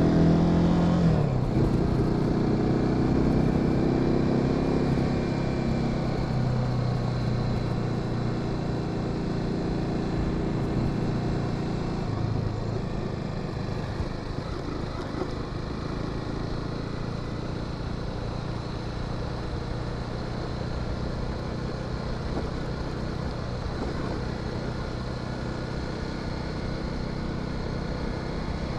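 Motorcycle engine decelerating, its pitch dropping sharply about a second in. It then runs low and steady under even road and wind noise, growing quieter as the bike slows.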